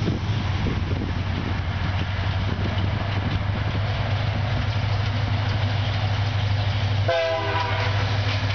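VIA Rail F40PH-2 diesel locomotive approaching with a steady low engine drone, then sounding its multi-tone chime horn in one long blast about seven seconds in.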